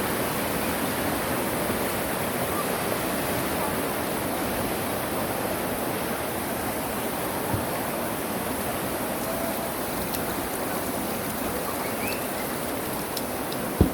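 Mountain valley stream flowing over rocks: a steady rush of water, with a sharp knock right at the end.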